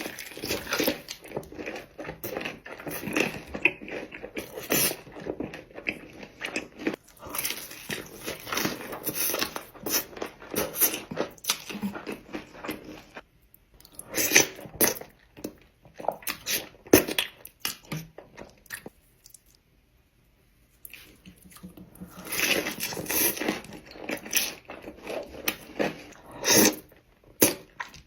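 Close-miked eating: crunchy bites and chewing in irregular bursts, with a pause of about two seconds a little past the middle.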